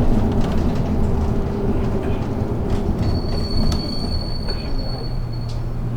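Interior of a city bus: steady engine and road rumble, with a thin, high, steady brake squeal for about two and a half seconds from about halfway through as the bus slows.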